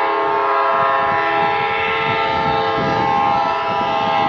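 Train horn held in one long continuous blast, a chord of several steady tones, with the rumble of the moving train beneath it.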